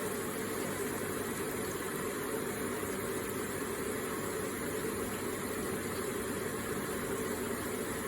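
Electric water feature running: water trickling and splashing in a steady, unbroken stream.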